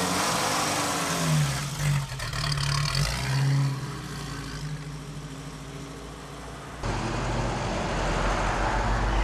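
Isuzu Amigo's 2.3-litre four-cylinder engine, running on gasoline vapor from a homemade vaporizer, revving as the car pulls away with its pitch rising and falling, then dropping off as it drives away. About seven seconds in it is abruptly louder, with tyre noise, as the car passes close by.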